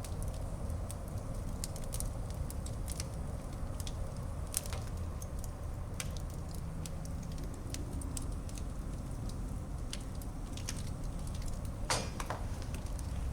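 Wood fire burning in a fireplace: a steady low rumble of flames with scattered crackles and pops, and a louder pop near the end.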